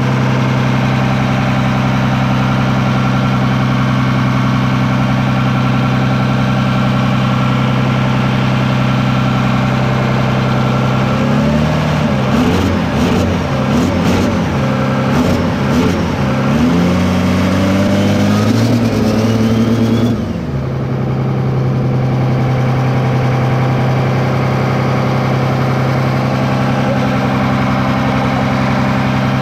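Cummins 12-valve diesel with compound turbos idling steadily. About eleven seconds in, it is revved up and down several times for some eight seconds, then drops back to a steady idle.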